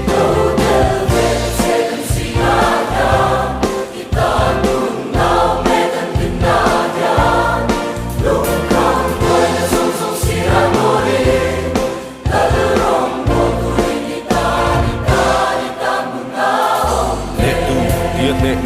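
Background music: a choir singing a Christian gospel song over instrumental backing with a steady beat.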